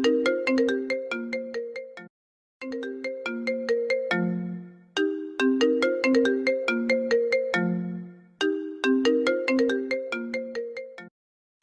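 Apple ringtone playing on a loop: a short melody of quick, ringing notes that starts over after a brief pause about two seconds in and again near the end.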